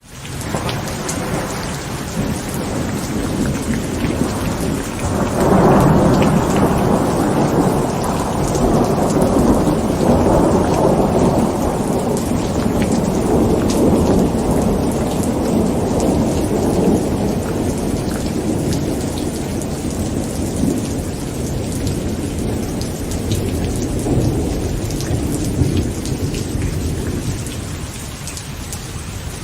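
Heavy rain pattering on a tent, with a long roll of thunder that builds about five seconds in and slowly dies away.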